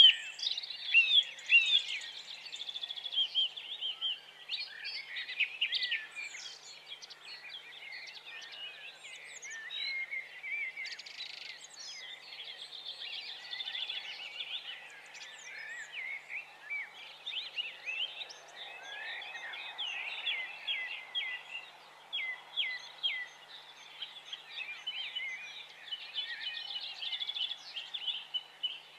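Many small birds chirping and twittering continuously in quick, overlapping calls, over a faint steady hiss.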